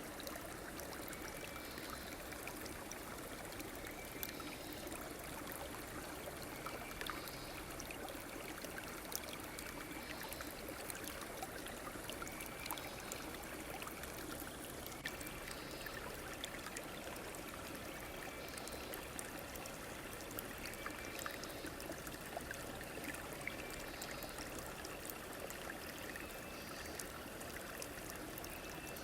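A stream running and trickling steadily, with a short high call repeating about every two seconds.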